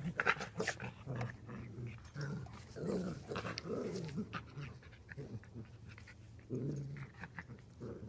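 Dogs growling in several short bouts as they scuffle, with scattered sharp clicks between.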